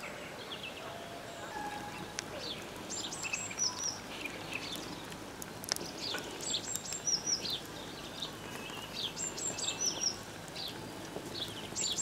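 A songbird singing a short, high phrase that repeats about every three seconds, with fainter chirps from other birds, over a faint steady hiss.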